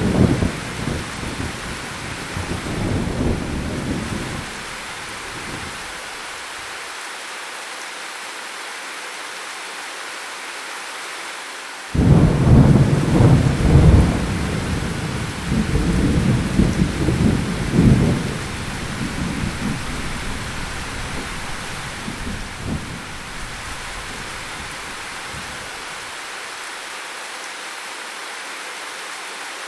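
Steady rain with thunder. A roll of thunder rumbles out over the first few seconds; about twelve seconds in a louder clap begins suddenly and rumbles on for about ten seconds before fading back into the rain.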